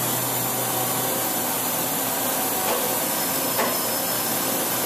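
Steady whirring hiss of a Doosan MV4020 CNC vertical mill's spindle running at a constant speed, with no rise or fall.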